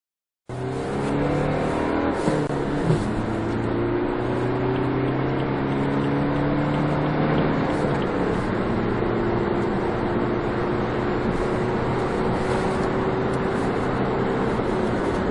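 BMW 325d's 2.0-litre four-cylinder turbodiesel pulling hard under acceleration over steady road and tyre noise: the engine note climbs, drops at a gear change about two seconds in with a short clunk, climbs again, and drops at a second gear change about eight seconds in before rising slowly once more.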